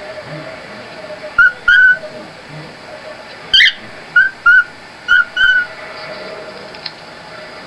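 A pet bird whistling short, clear notes, mostly in quick pairs, with one sharper chirp in the middle.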